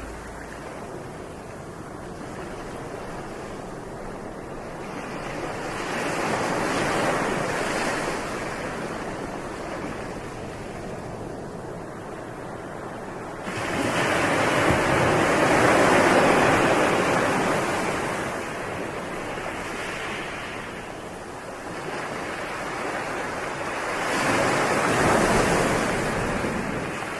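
Surf: waves rushing in and washing back, a steady noise that swells and fades every few seconds, with a sudden rise about halfway through.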